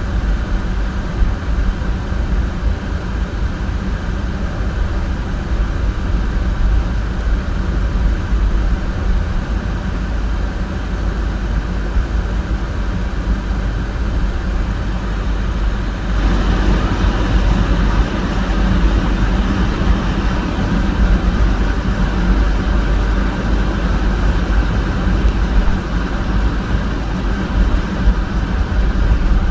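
A car being driven, its steady road and engine rumble heavy in the low end. About halfway through the noise gets louder and hissier and stays that way.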